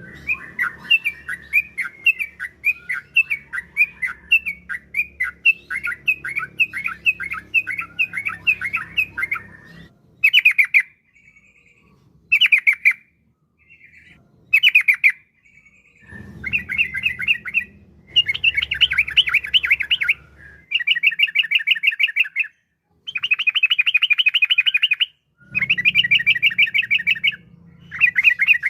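Sooty-headed bulbul (trucukan) singing. It gives about ten seconds of quick chirping notes, then a series of fast, rattling trills, each a second or two long, with short gaps between them. A faint low hum lies under parts of the song.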